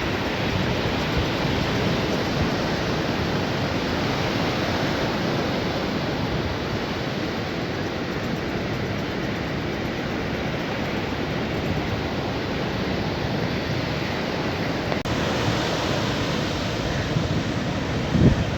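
Sea surf washing onto a beach, a steady rushing hiss, with a few bumps of wind on the microphone near the end.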